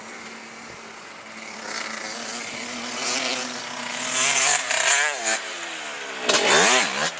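Dirt bike engine running steadily, then revved in several bursts from about three seconds in, its pitch sweeping up and down, the loudest burst near the end.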